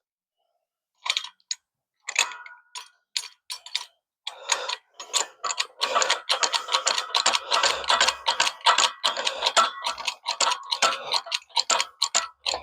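Irregular metallic clicking and clinking, sparse for the first few seconds and then quick and dense, from metal parts being handled as a U-joint at the other end of the driveshaft is set up for pressing out.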